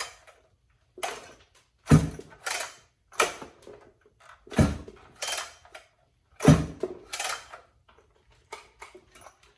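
Knocks and clatter of a chainsaw being handled, about nine separate knocks a second or so apart, three of them heavier thumps, with lighter clicks near the end.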